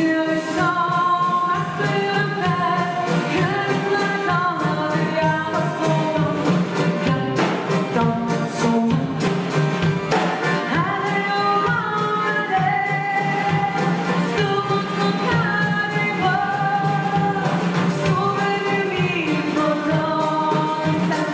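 A song: a singing voice over instrumental accompaniment with a steady beat.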